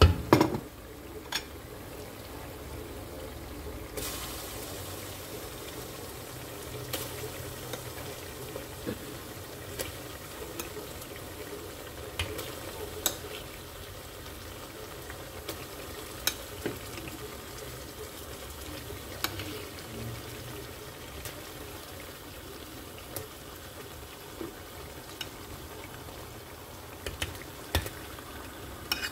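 Tomato puree and onions frying in hot oil in a metal stew pot: a steady sizzle that grows louder about four seconds in. Scattered clicks of a spoon against the pot as the stew base is stirred.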